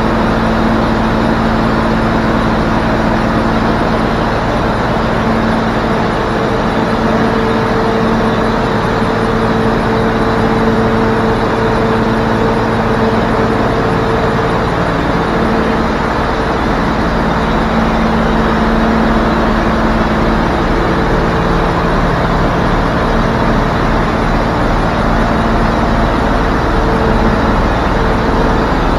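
Diesel engine running steadily at idle on a DAF LF55 fridge truck, with a hum that shifts slightly in pitch now and then.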